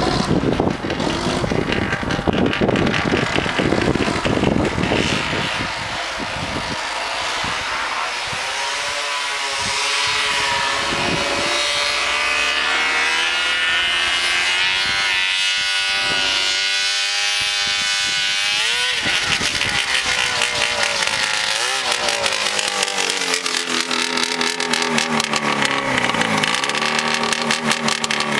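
1979 Ski-Doo Blizzard 5500 snowmobile's two-stroke engine running under way, its pitch rising and falling as the throttle is worked. A loud rushing noise dominates the first few seconds.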